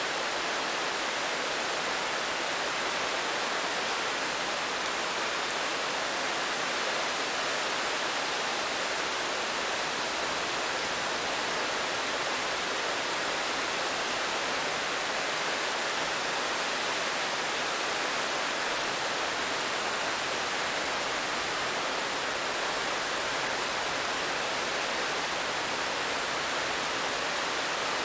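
Steady rain falling, an even hiss with no single drops, thunder or other events standing out.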